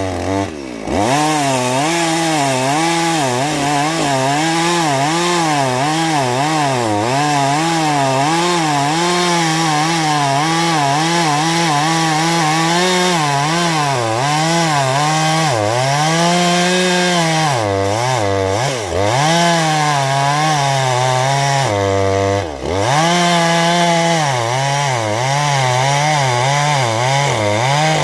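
Husqvarna 450 two-stroke chainsaw cutting through a thick oak log. The engine's pitch wavers up and down continuously as the chain loads in the cut, dropping sharply a few times, around a second in, past the middle and again a few seconds later.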